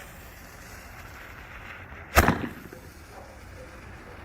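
A single sharp bang about two seconds in, ringing out briefly: a shot from an OX Fireworks PRO OX 5-shot Roman candle, which fires shots with a report.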